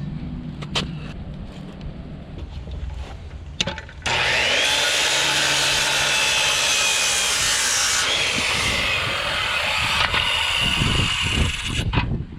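A few knocks, then about four seconds in a power saw starts abruptly and cuts through a wooden board, running steadily with a whine that dips in pitch partway through, until it stops near the end.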